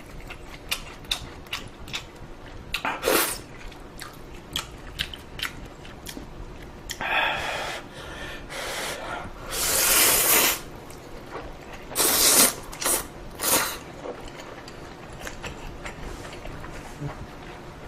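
Someone eating ramen noodles: several noisy slurps, the loudest about ten seconds in, between soft chewing and small clicks.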